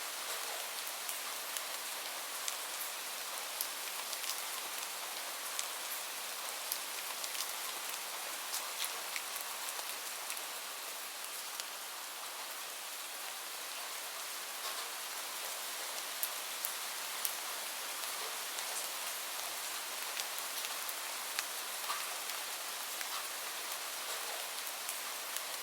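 Steady rain: an even hiss of falling rain with individual drops ticking sharply on a hard surface, scattered irregularly throughout.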